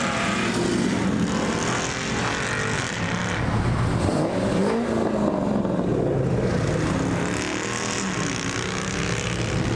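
Car engines running, their pitch rising and falling as they rev, over steady road and motor noise.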